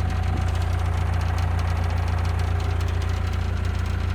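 Engine running steadily at idle, a constant low drone with an even pulsing beat.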